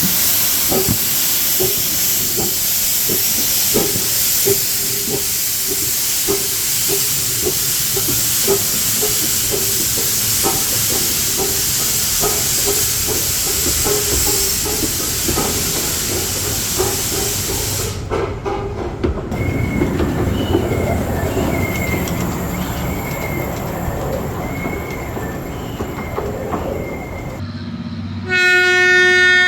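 Narrow-gauge steam locomotive running, with a steady loud hiss and a regular knocking beat of about one to two a second. After a cut there is a quieter stretch of train running. Near the end a locomotive whistle starts, a loud steady note.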